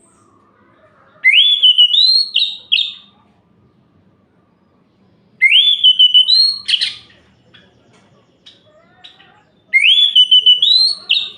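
Orange-headed thrush singing: three short loud phrases about four seconds apart, each a rising whistle followed by a few quick, higher, stepping notes.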